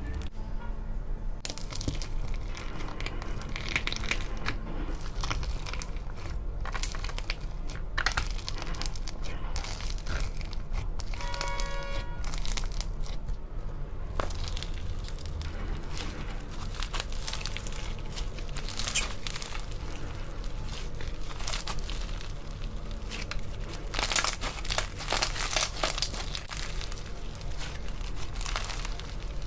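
Slime being squeezed and worked by hand, with a continuous crinkling and crackling, thickest a little before the end. A brief squeak sounds about twelve seconds in.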